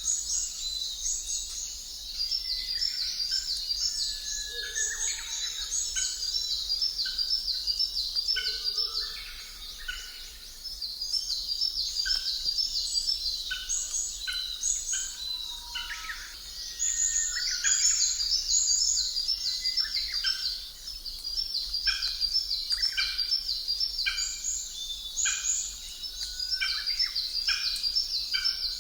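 Birds chirping and trilling in a dense, continuous chorus of rapid high-pitched repeated notes, with a few lower calls mixed in; a background nature-sound track.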